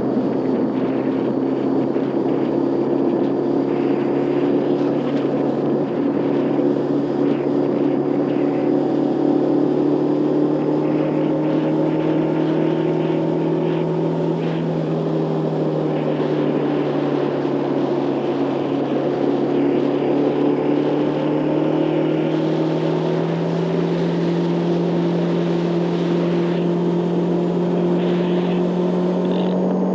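Motorcycle engine running steadily under way, its note climbing slowly and stepping higher about halfway through and again later, over a rushing noise.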